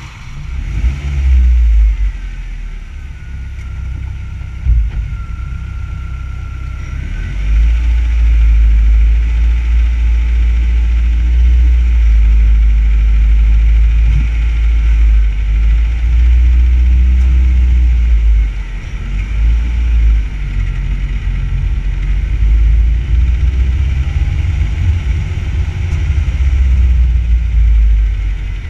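Car engine running just after starting, as the car moves off slowly, heard from a camera mounted on the front bumper. A heavy low rumble dominates, with the engine's pitch rising and falling a little with the revs.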